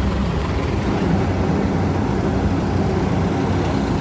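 Motor vehicle engine running steadily with a low drone.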